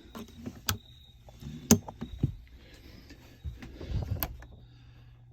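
A few sharp clicks and knocks with handling noise as light switches in a motorhome are tried. A low steady hum comes on a little past halfway and keeps going, as the lights come on.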